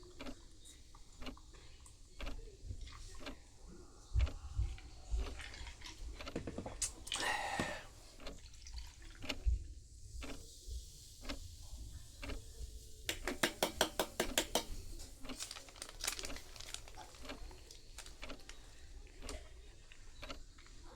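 A meal and drink being handled: scattered clicks and knocks of tableware, with a short pour of liquid about seven seconds in and a quick run of rattling clicks about thirteen to fifteen seconds in.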